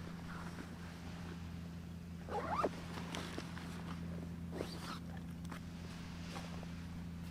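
A dog whimpering in short rising whines, once about two and a half seconds in and again more faintly near the middle, over a steady low hum.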